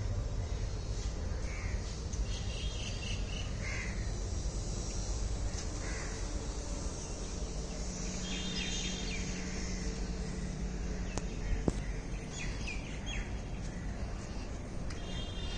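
Outdoor birds chirping and calling in short, scattered phrases over a steady low background rumble. Two sharp clicks come just after the middle.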